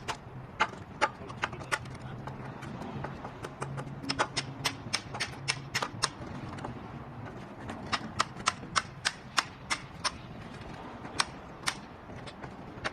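Irregular series of sharp knocks, up to a few a second and coming in clusters, over a low steady hum.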